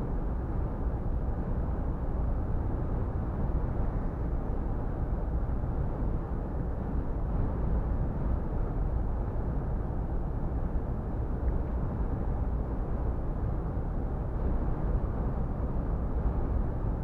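Scania R450 truck driving at highway speed: its 13-litre inline-six diesel runs with a steady low drone, mixed with road and wind noise and no changes in pace.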